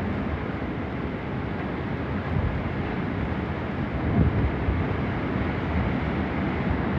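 Hurricane-force wind blowing hard across the microphone: a steady rushing noise heaviest in the low end, swelling with gusts about two and four seconds in.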